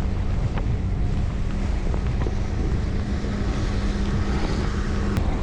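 Wind rushing over the microphone of a cyclist riding on the road, with a steady low hum that stops near the end.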